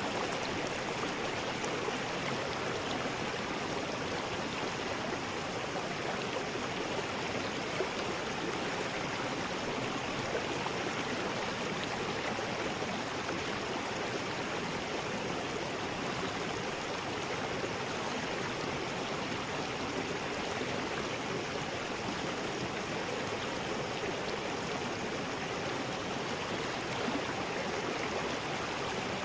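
River rapids rushing, a steady unbroken wash of water noise.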